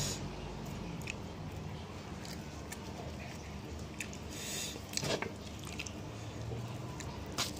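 Chewing and biting into crispy battered fried chicken wings, with a few short, sharp crunches spaced out over a steady low hum.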